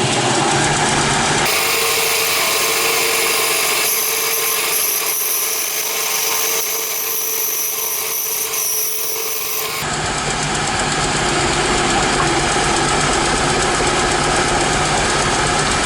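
10-inch Harbor Freight bandsaw running and resawing a block of glued-up 2x4s, the blade cutting steadily through the wood. Its tone changes about a second and a half in and changes back near ten seconds.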